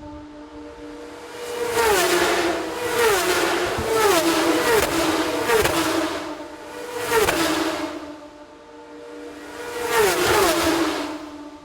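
Racing cars passing one after another at speed, about five or six of them, each engine note falling in pitch as it goes by. A steady hum runs underneath.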